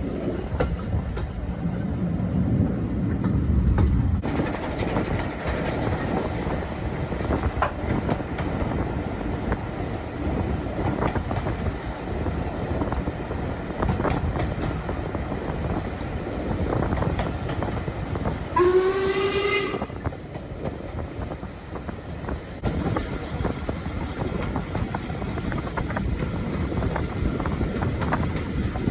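Steam-hauled train running, the wheels clattering over the rail joints. About two-thirds of the way through, the Royal Scot steam locomotive gives one short whistle blast.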